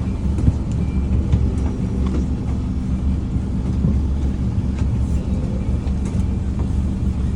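Scania N230UD Omnicity bus's five-cylinder diesel engine running steadily, heard from inside the bus as a low drone, with faint light rattles and clicks from the body.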